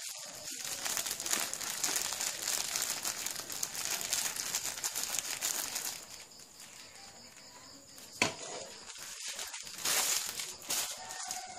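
Plastic packaging crinkling and rustling as it is handled, dense for about six seconds, then softer, with a sharp click about eight seconds in and another burst of rustling about ten seconds in.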